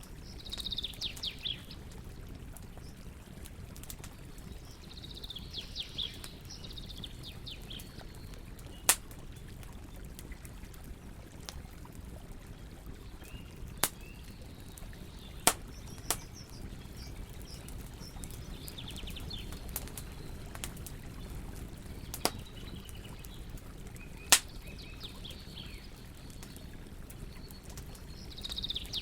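Campfire crackling, with a handful of sharp wood pops over a steady low hiss of burning. Short phrases of quick falling bird chirps come in every few seconds.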